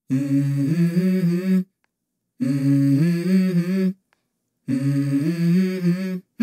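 A voice humming a short melody, unaccompanied, in three phrases of about a second and a half each, with short silences between them.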